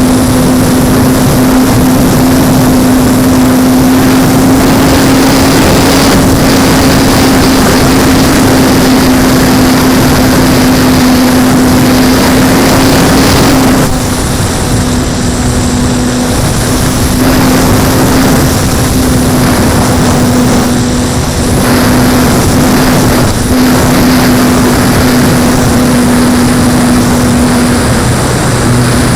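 Electric motor and propeller of an E-flite Apprentice S 15e RC plane running at a steady throttle, a constant drone with heavy wind noise rushing over the microphone. About halfway through it eases slightly and then wavers a little as the throttle changes.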